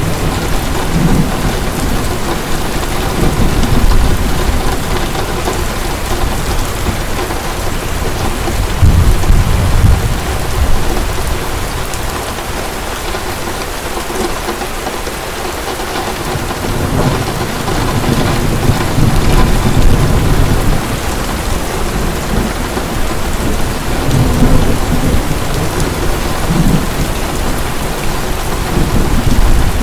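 Heavy rain falling steadily, with rolls of distant thunder rumbling low several times, easing for a few seconds near the middle.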